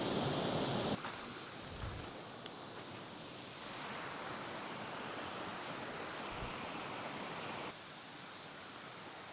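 Steady hiss of flowing water in a creek, louder for the first second and then dropping abruptly to a softer rush, with a second abrupt drop near the end. A single sharp click about two and a half seconds in.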